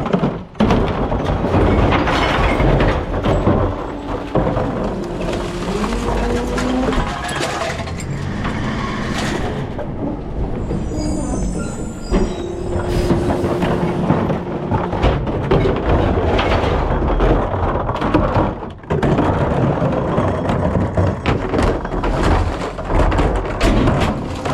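Rear-loader recycling truck running, with clatter throughout and whining tones that shift up and down in pitch. The sound drops out briefly twice.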